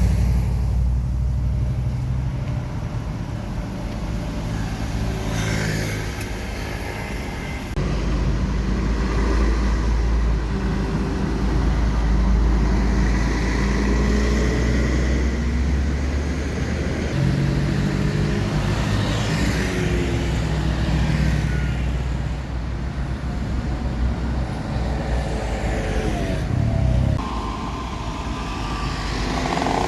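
Jeep TJ engine running, with its pitch and level changing several times.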